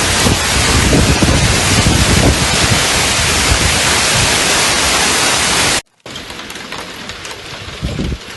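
Torrential rain pouring down in a loud, dense hiss; about six seconds in it cuts off abruptly and gives way to a quieter stretch of steady rain.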